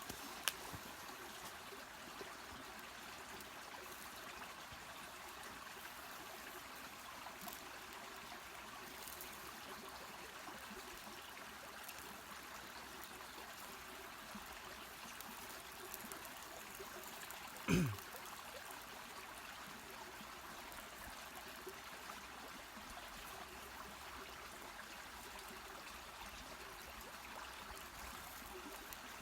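A mountain stream flowing with a steady rushing trickle. About eighteen seconds in there is one short, louder sound that drops quickly in pitch, and there is a sharp click near the start.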